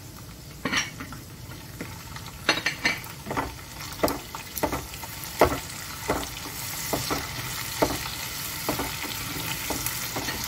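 Blended garlic, onion and ginger paste frying in hot oil in a wok, stirred with a wooden spatula that knocks and scrapes against the pan. The sizzle grows louder about halfway through as the paste heats.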